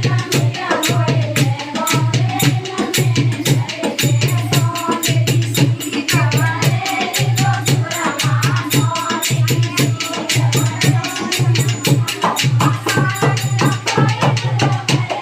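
Languriya folk song: a singing voice over quick, steady shaker-like percussion strokes and a repeating low drum beat.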